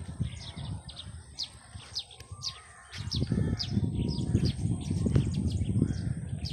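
Birds chirping over and over, each note a short, high, falling chirp. From about three seconds in, a low rumble on the microphone becomes the loudest sound.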